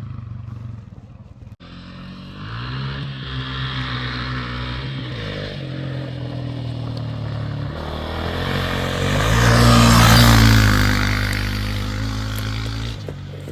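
Dirt bike engine revving and pulling through the gears, its pitch climbing in steps. It grows loudest about ten seconds in, then fades away.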